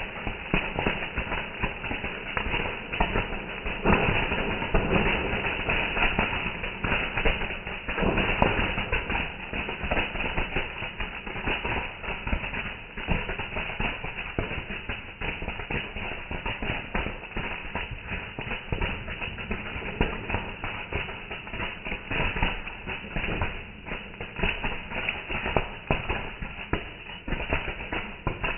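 Fireworks going off: a dense, irregular run of crackling pops and bangs, swelling louder about four and eight seconds in.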